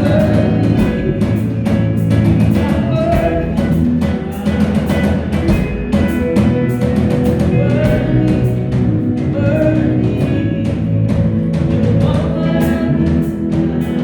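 Live worship band music with a steady drum beat under sustained instruments, with some singing.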